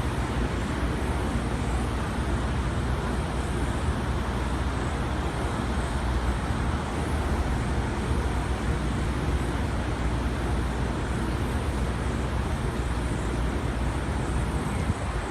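Inside a Siemens-built R160B New York subway car under way: a steady rumble of wheels on rail and running gear.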